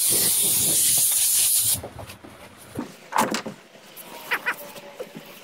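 A burst of compressed air hissing for nearly two seconds and cutting off suddenly, followed by a few sharp knocks.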